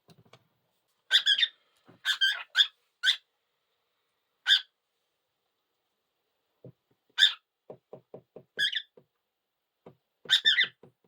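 White-faced cockatiel giving short, sharp chirps, about eight in all, spaced irregularly with gaps between them. About eight seconds in, a quick run of about six light taps.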